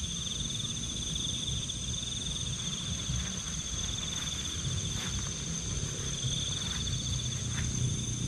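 Night insects trilling steadily in a chorus at two high pitches, one of them with a fast pulsing texture. A few faint clicks are heard.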